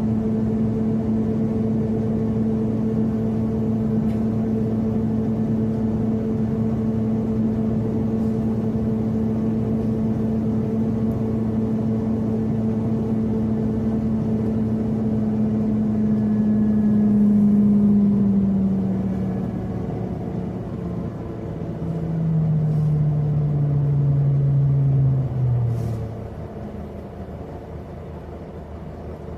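Scania CN270UB CNG city bus heard from inside, running at steady speed with a steady whine over its engine rumble. About two thirds of the way through the whine steps down and falls in pitch as the bus slows, and near the end the sound drops to a quieter steady rumble.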